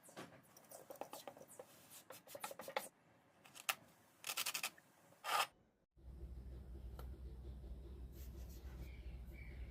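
Close-up scratching and rubbing of modelling clay being worked by hand and tool, with scattered clicks and a quick run of rapid ticks about four seconds in. About six seconds in the sound cuts off abruptly to a steady low hum with a few faint taps.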